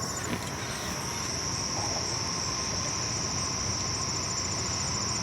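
Steady high-pitched chorus of insects, crickets or similar, running without a break over a low background rumble.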